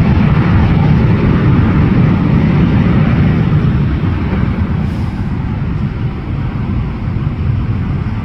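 Jet engine noise from a departing British Airways Boeing 777-300ER's twin GE90 turbofans at takeoff power: a loud, steady low rumble with a jet roar over it, slowly fading from about halfway through.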